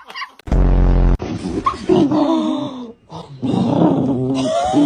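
A dachshund vocalizing: a short, loud, low grunting growl about half a second in, then long whining moans that waver up and down in pitch, broken by a brief gap about three seconds in.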